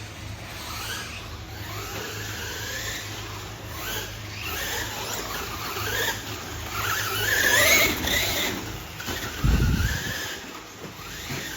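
Electric motors of radio-controlled racing trucks whining, the pitch rising and falling over and over as they speed up and slow down around the track. The whine is loudest about eight seconds in, and there is a short low rumble a little later.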